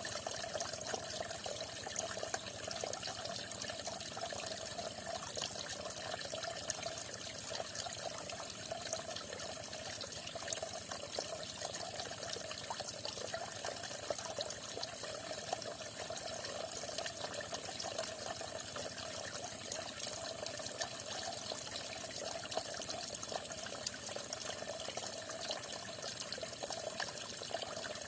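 Water falling and splashing steadily, with a continuous gurgle and many small flickering splashes.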